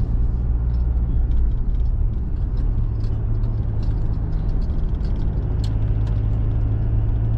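Steady engine and road noise heard from inside a small truck's cab while driving at a constant speed: an even low hum with light scattered ticks on top.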